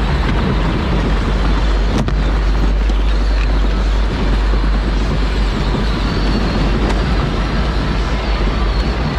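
Steady, loud running noise of a Power Wheels ride-on toy car being driven, a continuous rumble and hiss with no change in pace.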